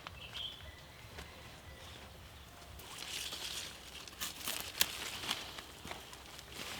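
Rustling and crackling of plants and tubers being handled, with a run of sharp clicks and snaps, busiest in the second half.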